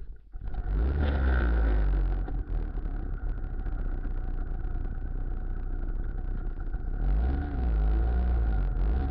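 Muravey cargo trike's engine running under way, its speed rising and falling, with a steady whine over the low rumble. It starts abruptly about half a second in.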